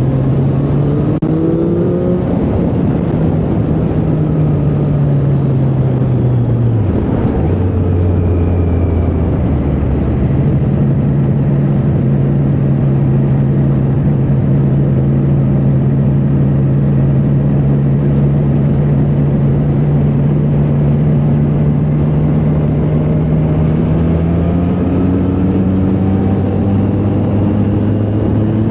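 Triumph Street Triple 765R's three-cylinder engine under way. It pulls up in pitch at the start, eases off and drops about seven seconds in, then holds a steady cruise before climbing again as the bike accelerates near the end.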